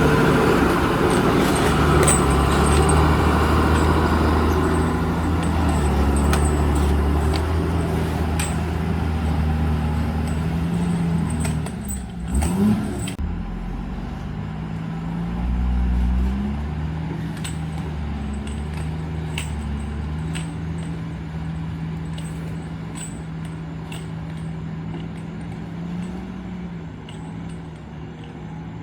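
JCB 3DX Super backhoe loader's diesel engine running steadily, with many sharp metallic clinks and rattles. The engine note dips and recovers briefly about twelve seconds in, and the sound slowly fades toward the end.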